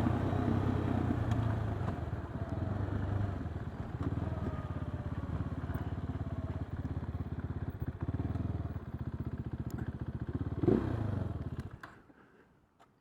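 KTM 390 Duke's single-cylinder engine running at low revs with an even, rapid pulsing, with a short louder surge about eleven seconds in before the engine sound stops near the end.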